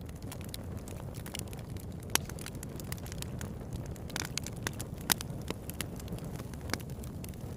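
Campfire burning: wood crackling with frequent sharp snaps over a steady low rush of the flames, with a couple of louder pops about two and five seconds in.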